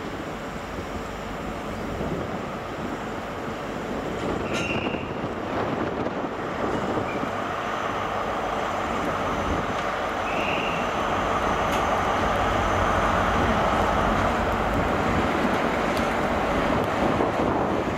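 Class 43 HST (InterCity 125) running slowly into the station over curved track and points, its diesel power car and wheels on the rails growing louder as it draws near. Brief wheel squeals sound twice, about five seconds apart.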